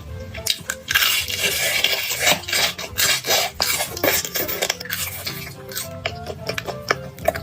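Utensils clicking and scraping against dishes and bowls, with a longer stretch of noise from about one to two and a half seconds in, over quiet background music.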